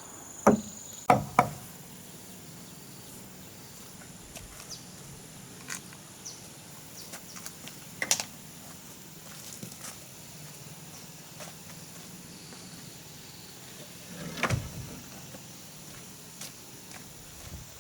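Hand tool blows on wood: three hard strikes in the first second and a half, then scattered light knocks and taps, with single louder knocks about 8 seconds and 14 seconds in. A faint high steady whine runs in the background.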